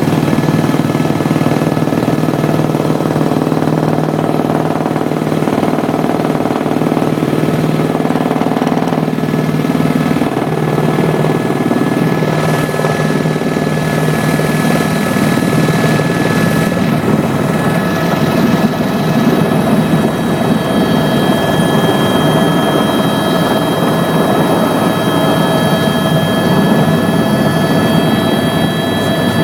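Helicopter engine, turbine and rotors heard from inside the cabin in flight: a loud, steady drone with a constant high whine.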